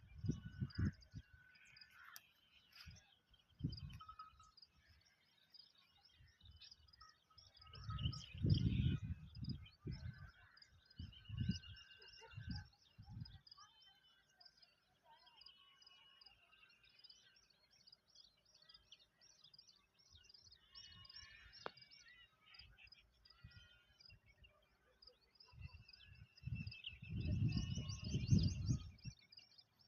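Many small birds chirping and twittering in a steady background chorus. Bursts of low rumble come and go several times and are the loudest sound, especially about eight seconds in and near the end.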